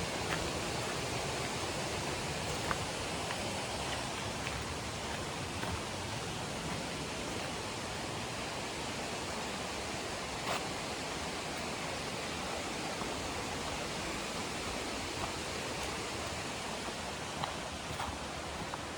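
A river rushing steadily beside a forest trail, an even wash of water noise, with a few faint clicks scattered through it.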